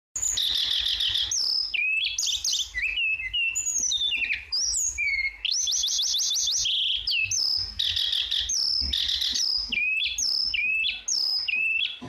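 Tledekan songbird singing a busy, varied song of clear whistles, slurred rising and falling notes and fast trilled phrases, one after another without pause.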